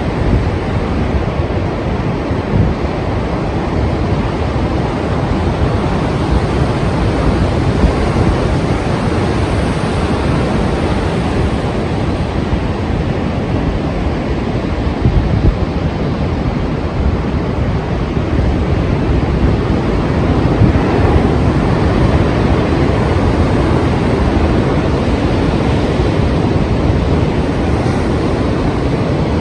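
Strong sea surf, a continuous loud wash of breaking waves with gentle swells in level, and wind on the microphone.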